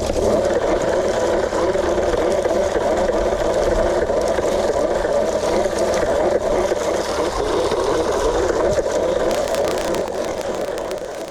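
An engine running steadily close by, easing off a little near the end.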